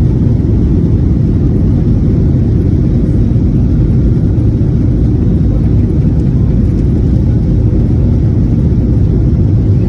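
Jet airliner cabin noise: a steady low rumble of the engines and airflow heard from inside the passenger cabin.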